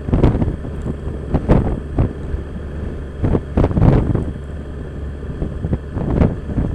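Wind buffeting the rider's microphone in repeated gusts over the steady running of a 2015 Yamaha FJR1300's inline-four engine at riding speed.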